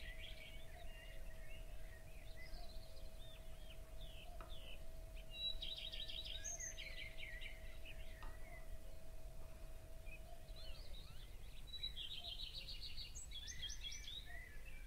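A songbird singing a trilled, chirping phrase, repeated about every six seconds over a low background hum.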